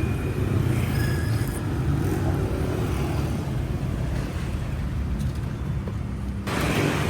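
Steady rumble of a motorcycle ride through city traffic: engine and road noise. The higher traffic hiss thins out for a few seconds, then comes back suddenly near the end.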